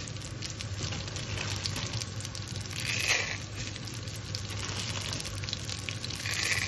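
Vermicelli frying in hot desi ghee in a steel pot: a steady sizzle with fine crackling, louder about three seconds in and again near the end.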